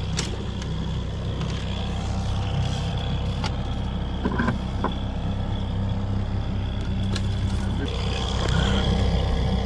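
Boat motor running steadily at trolling speed, a low even hum with a faint high whine over it, and a few sharp clicks or knocks.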